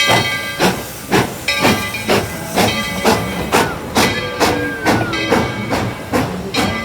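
Narrow-gauge steam locomotive chuffing steadily at about two exhaust beats a second, with steam hissing between the beats.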